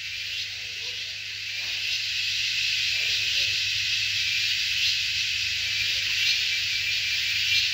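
A steady, shrill insect chorus with a high whine, growing louder about two seconds in.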